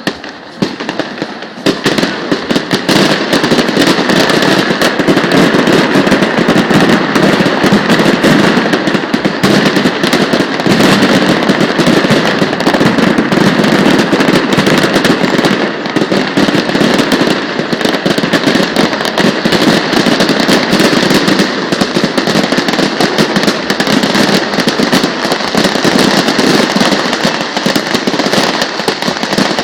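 Fireworks display: a few separate bangs, then from about two seconds in a dense, continuous barrage of bursts and crackling.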